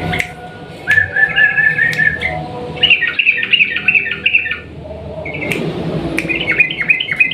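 Yellow-vented bulbul (trucukan) singing in fast runs of repeated chattering notes, in three bursts with short breaks between them.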